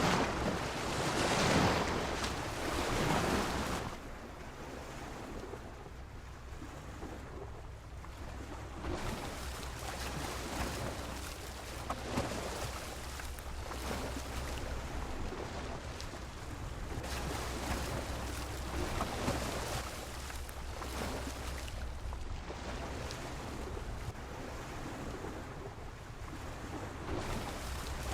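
Sea waves washing and splashing against a pier: one loud surge of water in the first few seconds, then a steadier wash with small splashes. Wind rumbles on the microphone throughout.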